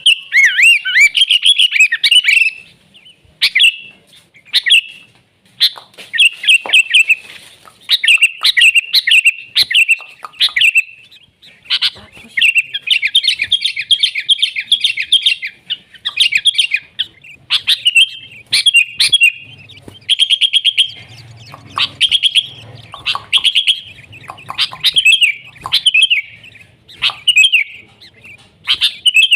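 Sooty-headed bulbul (kutilang) singing: rapid bursts of bright chirping phrases, one after another with short gaps, with a dense trilling run about midway.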